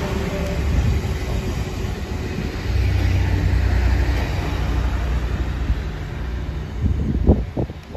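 DSB IC3 diesel multiple unit passing and drawing away, a steady rumble of wheels on the rails and running gear. A few short thumps come near the end.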